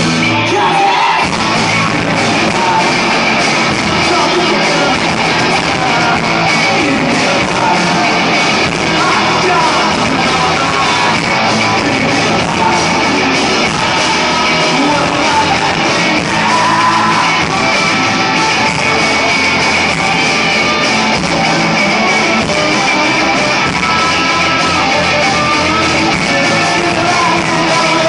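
Psychedelic punk rock band playing loud and steady, electric guitar and drums with yelled vocals over them.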